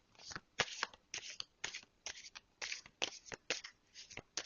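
A tarot deck being shuffled by hand: an uneven run of short swishes, three or four a second.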